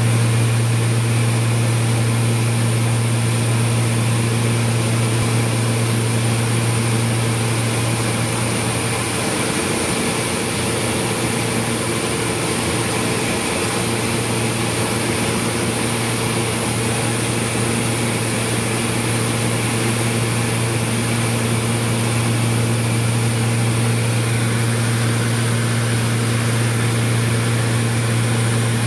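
A small aircraft's engine drones steadily in flight, heard on board: a loud low hum under a constant hiss. The hum wavers for a few seconds about a third of the way in.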